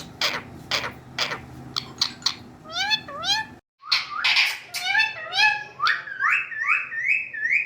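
Pet talking parrot giving a long run of short, upward-sliding, meow-like calls. The calls come faster in the second half, about two a second, with a brief break a little over halfway through.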